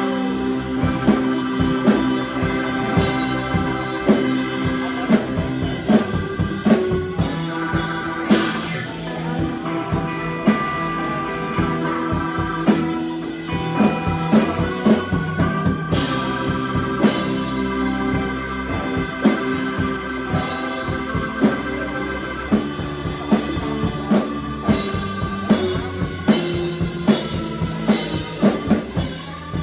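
Live rock band playing an instrumental passage: drum kit keeping a steady beat under sustained organ or keyboard chords and guitar.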